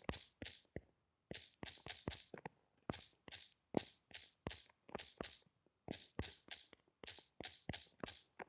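A mechanical fireplace crackling: sharp clicks, several a second at uneven spacing, each with a short hiss, like burning wood.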